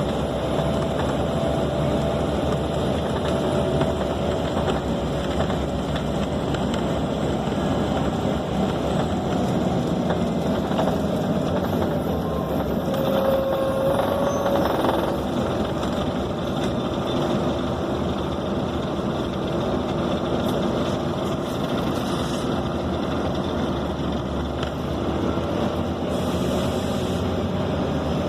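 Inside a moving city bus: the Scania K270's rear-mounted diesel engine and road noise run steadily, and the engine note changes pitch partway through.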